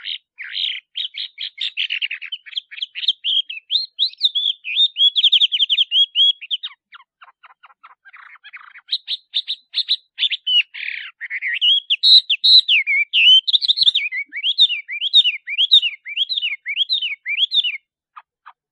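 Male Chinese hwamei singing: fast runs of rapidly repeated notes, a softer patch midway, then a series of slurred down-and-up whistles about two a second, stopping shortly before the end.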